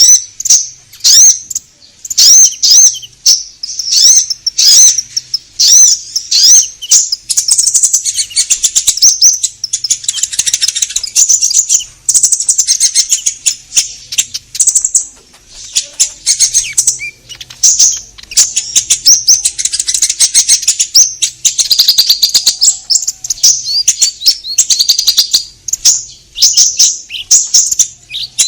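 Common iora (konin) singing vigorously and without a break, the full song a bird fancier calls gacor. Short phrases of high chirps and whistled notes come in the first few seconds, then run together into long dense stretches of fast chattering trills.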